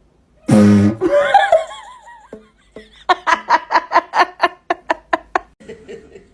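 Laughter: a run of about a dozen even 'ha' pulses, about four a second, fading toward the end. Before it comes a short loud buzzy blast and a wavering, warbling sound.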